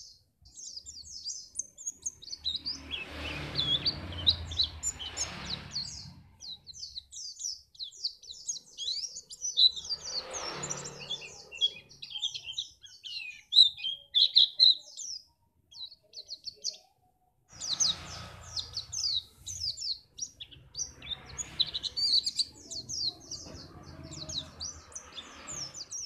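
Pleci (white-eye) singing a fast, high twittering song of rapid chirps, nearly continuous with a couple of short pauses, over patches of faint low background noise.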